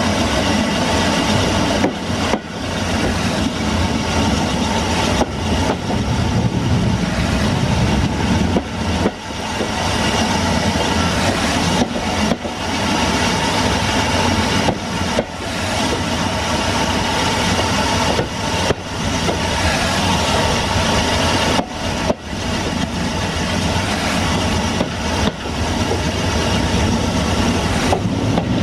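Steam-hauled heritage train running along the track, heard on board from the rear cab: a steady rumble and rolling noise of wheels on rail, with brief dips in level every few seconds.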